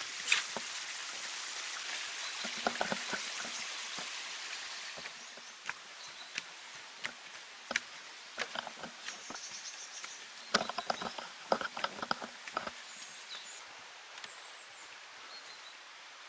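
Running water of a mountain stream, fading after about five seconds. Scattered clicks and knocks come in small bunches, about three seconds in and again near the middle.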